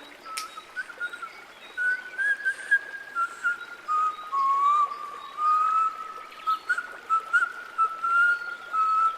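A person whistling a slow melody: long, steady notes that step up and down in pitch, pausing briefly between phrases.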